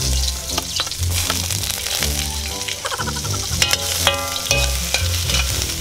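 Sliced onions sizzling in hot oil in a metal wok, stirred with a ladle, with background music playing underneath.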